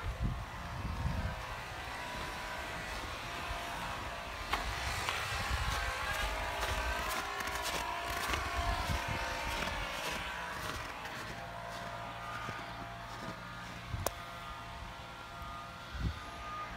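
A car engine running steadily outdoors, with a couple of sharp clicks partway through.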